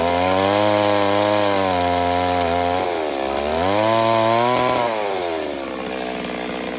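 Two-stroke chainsaw running at high revs as it cuts wood. Its pitch dips and climbs again about three seconds in, then drops to a lower, steadier note about five seconds in.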